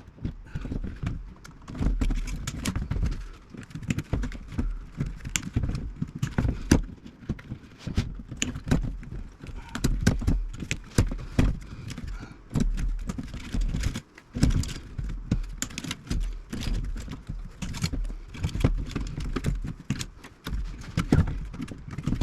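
Hand tools snipping wires and component leads out of an old radio chassis: a long run of irregular sharp clicks and metallic clinks, with low handling knocks as the chassis and parts are moved.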